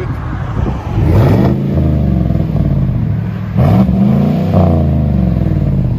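Chevy Silverado's 5.3-litre V8 through a Flowmaster Flow FX muffler, with the factory resonators kept, idling and then revved twice in place, about a second in and again about three and a half seconds in. Each time the pitch climbs quickly and settles back toward idle.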